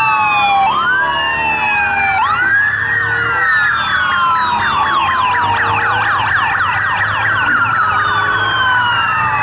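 Several sirens sounding at once, steady and loud: slow wails rising and falling over rapid repeated yelps, like a layered emergency-siren sound effect.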